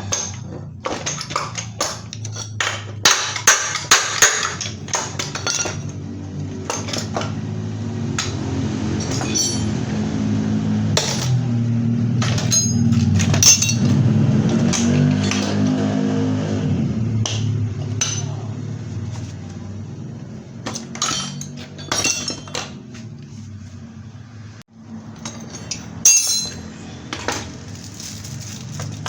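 Metal hand tools clinking, tapping and knocking on scooter engine parts as the Vespa engine is taken apart, in quick irregular strikes that are thickest in the first few seconds. Under them runs a low hum that grows louder in the middle and then fades.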